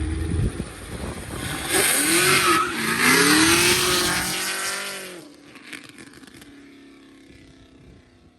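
A car leaving hard: the engine revs up and down with tire squeal, loudest from about two to four seconds in, then fades away as it drives off.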